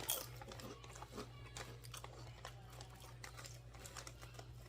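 Faint crunching of potato chips being chewed: a scatter of small crisp clicks, over a low steady hum.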